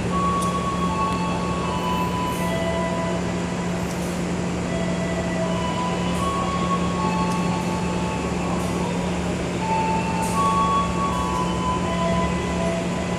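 Passenger train rail noise: a steady low hum under many short, high squealing tones at several pitches, scattered throughout.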